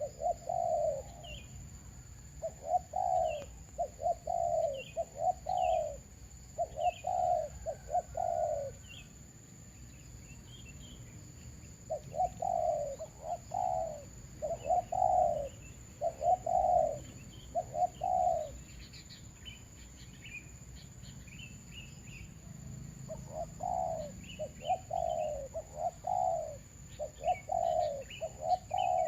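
Decoy doves cooing in repeated phrases of three or four low coos, with two longer pauses in the calling. Small birds chirp faintly and higher, and a steady faint high tone runs underneath.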